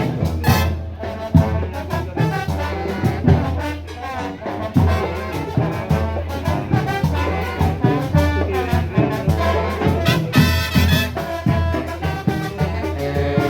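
Marching band with trumpets and trombones playing a lively tune over a steady drumbeat and bass.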